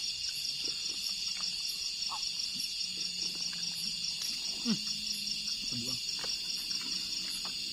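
Steady chorus of night insects, crickets trilling continuously in a high, pulsing drone. There are faint low sounds underneath and one brief louder low sound a little past the middle.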